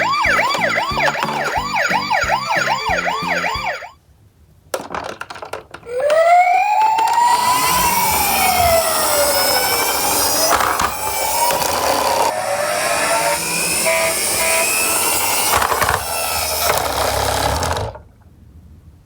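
Toy truck's electronic siren: a fast warbling yelp for about four seconds, then, after a short pause, a slow wail that rises and falls over a steady hiss.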